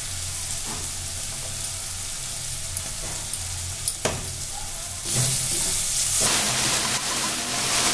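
Spiced tomato and capsicum masala sizzling in oil in an aluminium kadai, with a single clink about four seconds in. From about five seconds a steel spatula stirs and scrapes through it, and the sizzle grows louder.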